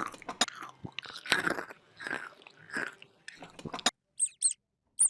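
Close-up crunchy chewing, bites coming roughly every 0.7 seconds, which stops about four seconds in. A couple of short high chirps follow near the end.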